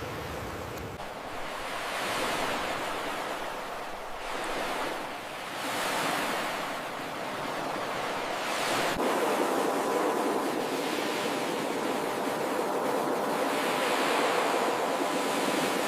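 Ocean surf: waves breaking and washing ashore, the rush of water swelling and easing every few seconds, loudest in the second half.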